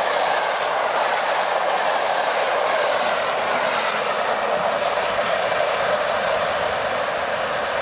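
Passenger coaches rolling past at speed: a steady, loud rolling noise of wheels on the rails.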